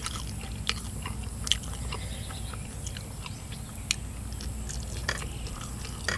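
Close-up eating sounds: people chewing and biting pieces of stir-fried eel with rice, with scattered small wet clicks and smacks of the mouth and fingers.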